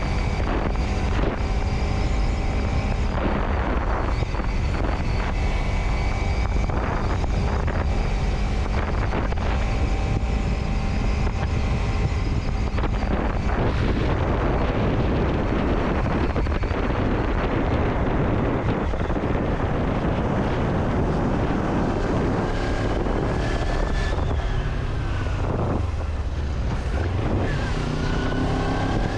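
Vehicle on the move: steady engine and road noise with wind buffeting the microphone. Near the end the engine note rises as the vehicle speeds up.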